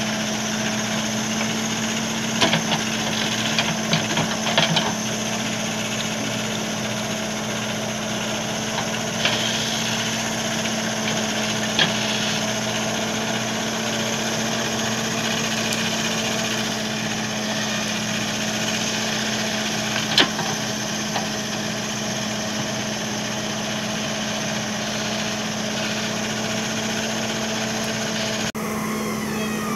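JCB backhoe loader's diesel engine running steadily, with a few short clanks from the machine about two, four to five, twelve and twenty seconds in.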